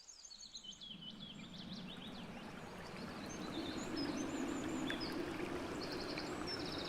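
Several birds chirping and trilling in quick, high notes over a steady rushing background noise, the whole fading in over the first few seconds.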